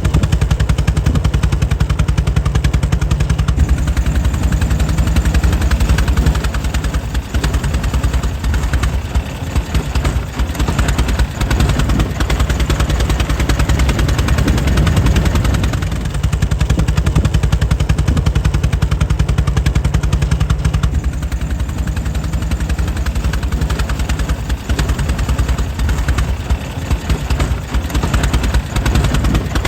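Air-cooled engine of a 1904 Mitchell car running steadily, a fast, even train of firing pulses. It eases off slightly for a few seconds twice.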